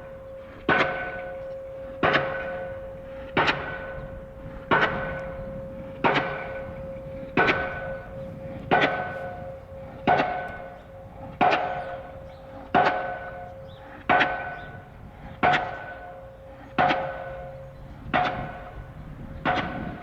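Diesel pile hammer striking a steel H-pile at an even pace, about one blow every 1.3 seconds, each a loud metallic clang that rings on between blows.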